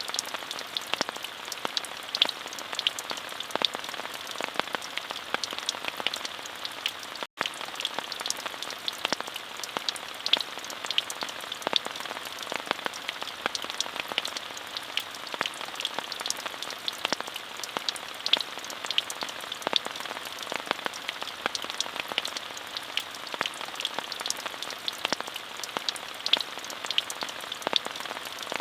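Steady rain with many sharp individual drop ticks over an even hiss. The sound cuts out for an instant about seven seconds in.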